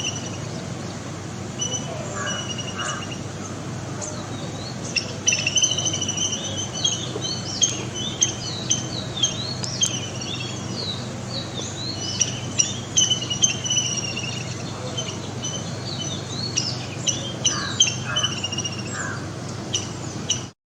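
Small birds chirping and twittering: many quick, high calls that glide up and down, sparse at first and busier from about five seconds in, over a steady low hum.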